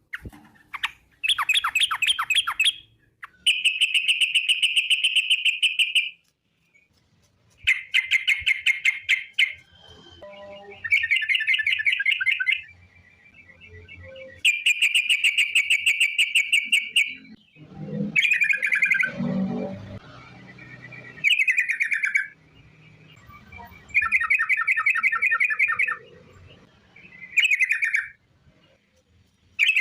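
Yellow-vented bulbul (trucukan) singing its long, rapid 'ropel' song: about eight separate bursts of fast, evenly repeated chattering notes, each lasting one and a half to three seconds, with short pauses between them.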